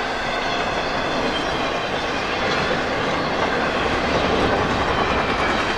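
CSX intermodal freight train running fast, a steady rumble with the clickety-clack of its wheels on the rails.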